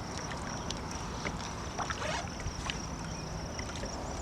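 Water splashing and dripping around a plastic sit-on-top fishing kayak as it is paddled, with small irregular splashes over a steady rush of water and light wind.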